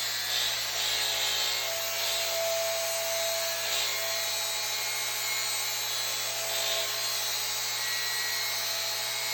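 Angle grinder steadily grinding a weld bevel into a pipe end as the pipe turns on a welding positioner, with a constant hum under the grinding.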